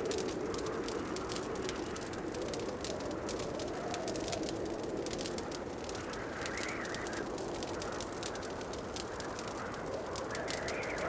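Wood fire crackling in a fireplace: a steady stream of quick, sharp pops over a soft rushing background that swells a few times.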